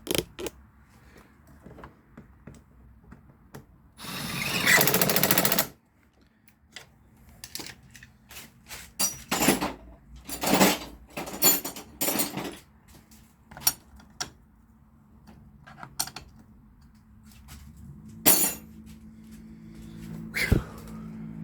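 A power tool, most likely an impact wrench, runs in one burst of rapid hammering for about two seconds, running a starter mounting bolt in. Scattered clicks and knocks of tools follow.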